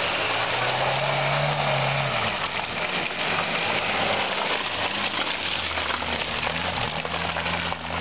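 Small Suzuki 4x4's engine running as it drives slowly down a muddy track past the microphone, its note rising and falling a little early on, then turning deeper and louder in the second half as the vehicle passes.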